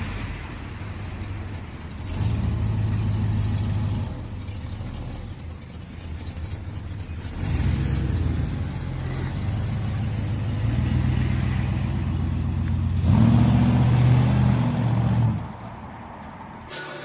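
Dodge car engine running after start-up: a steady idle with a few stretches where the throttle is raised and the engine note rises and gets louder, the strongest near the end, before it settles back to a quieter idle.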